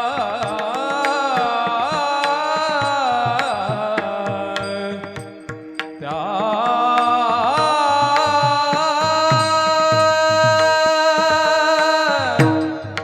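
A woman sings kirtan in two long, drawn-out phrases whose pitch wavers and slides, the second breaking off about a second before the end. Under her voice are a steady drone and a regular hand-drum beat.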